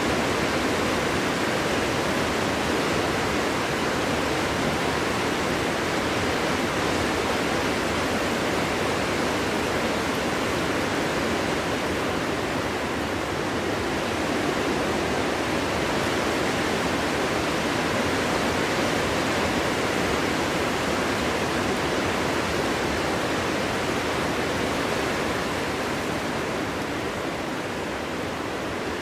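Wind blowing steadily through a forest, a dense, even rushing noise without any whistling tone, easing slightly near the end.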